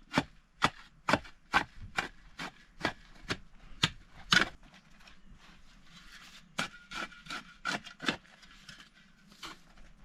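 Repeated sharp strikes on wood, about two a second: a run of ten or so, the loudest near the middle, then a short pause and four or five more.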